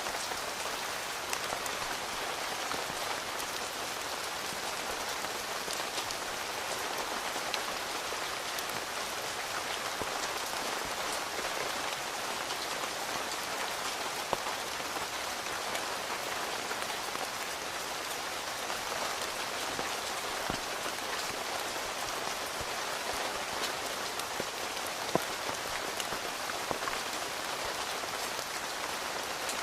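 Steady rain falling on a tent, heard from inside, with a few louder single drops ticking on the fabric.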